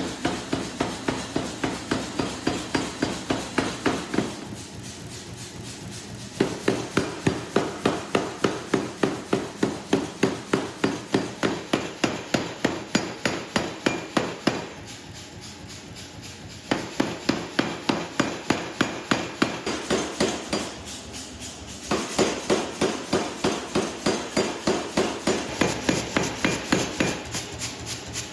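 Carbon steel being hammer-forged into a knife blade: rapid, even hammer blows, about three to four a second, in runs broken by three short pauses.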